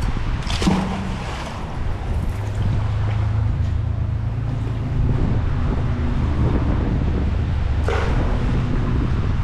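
Wind buffeting the microphone: a steady low rumble, with two short sharp sounds, one about half a second in and one near the end.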